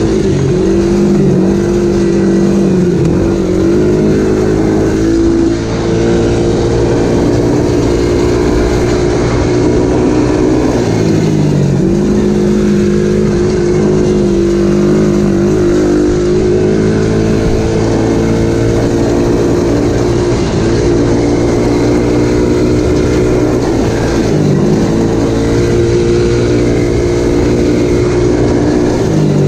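Dirt bike engine running under way at a steady pitch, easing off and climbing back up a few times as the throttle changes.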